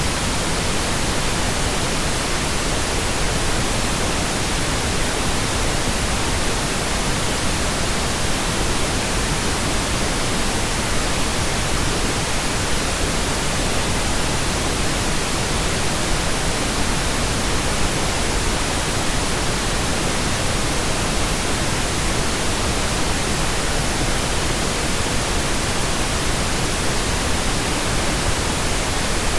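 Steady, unchanging pink noise generated in software: an even hiss spread across all pitches, with no tones or events.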